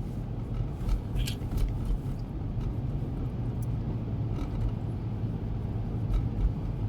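Car cabin noise while driving on a snowy road: a steady low rumble of engine and tyres, with a few faint ticks.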